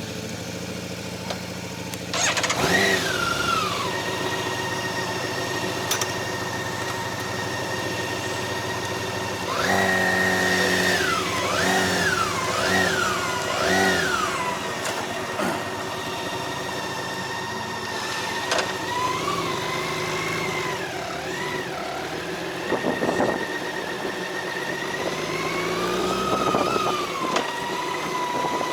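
Motorcycle engine running, revving up and falling back several times as it pulls away and shifts through the gears.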